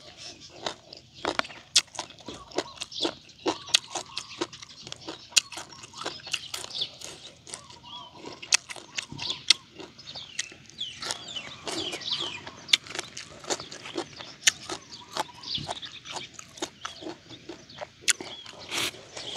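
A person eating papaya salad and fresh greens close to the microphone: chewing and crunching, with many sharp mouth clicks throughout.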